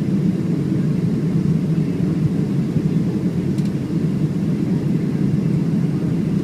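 Steady low rumble of engine and airflow noise inside the passenger cabin of a Boeing 737-700 with CFM56-7B turbofans.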